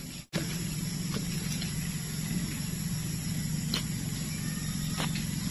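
A steady low motor hum, with a few faint ticks of a metal hand tool digging into dry, clumpy soil.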